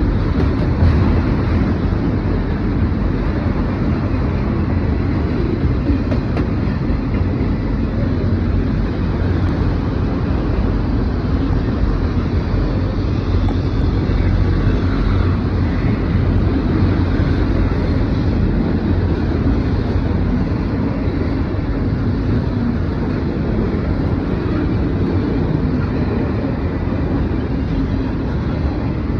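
Norfolk Southern mixed freight train rolling past, a steady loud rumble of the train on the rails.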